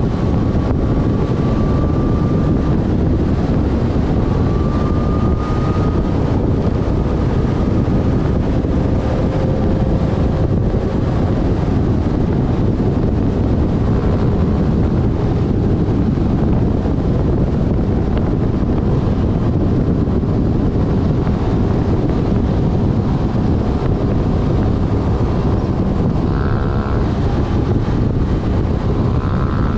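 Wind rushing over the microphone of a GoPro on a Yamaha Fazer FZ6S riding at speed, with the bike's inline-four engine running underneath. A faint engine whine rises in pitch a few times, most plainly near the end.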